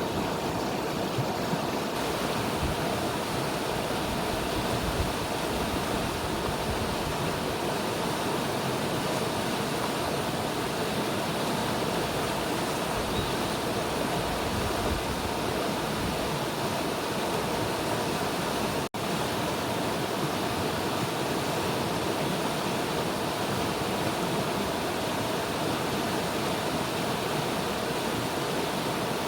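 River water rushing steadily in an even, full hiss. A split-second dropout cuts it about two-thirds of the way through.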